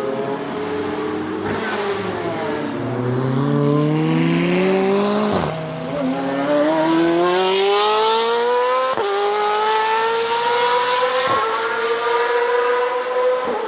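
Nissan 370Z's 3.7-litre V6 accelerating hard through the gears. The engine note climbs steadily, then drops sharply at each of four upshifts before climbing again.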